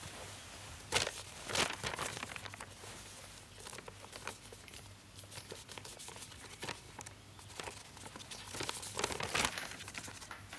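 Irregular rustling and crinkling, like material being handled, with louder bursts about a second in and again near the end.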